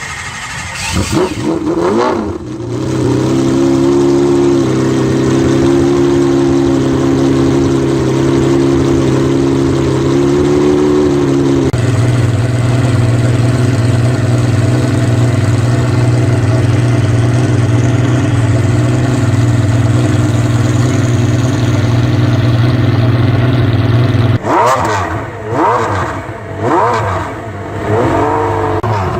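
McLaren F1 LM's BMW V12 running just after start-up. After a couple of blips it holds a high fast idle, which drops to a lower steady idle about twelve seconds in. Near the end it is revved in a series of quick blips.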